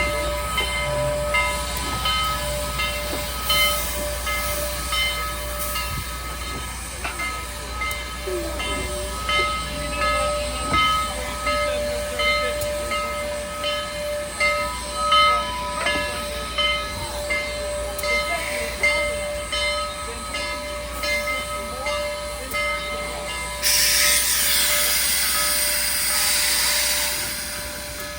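Train rolling by, with steady high-pitched wheel squeal and irregular clacks and knocks. About 24 seconds in, a loud burst of air hiss starts and lasts about four seconds.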